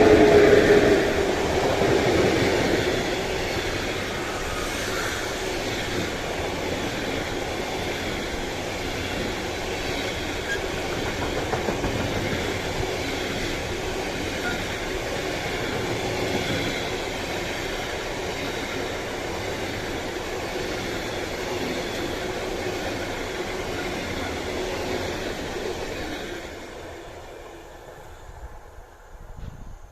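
A train passing close by: loudest at the start as the head of the train goes past, with a falling tone, then a long steady run of rail cars rolling by with clickety-clack, dying away about 26 seconds in.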